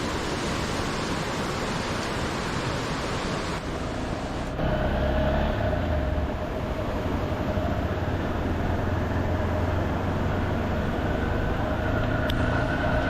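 Steady rushing roar of a swollen, typhoon-fed mountain torrent, which cuts off abruptly about four seconds in and gives way to a vehicle engine running steadily with a low hum.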